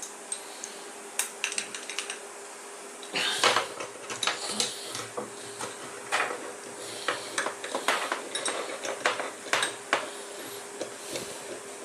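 Metal tools and metal motor parts clinking and knocking in quick, irregular clicks, the loudest a little over three seconds in, over a faint steady hum.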